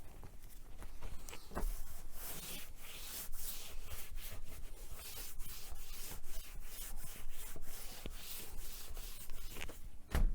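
A cloth wiping a shelf with repeated back-and-forth rubbing strokes, with a knock near the end.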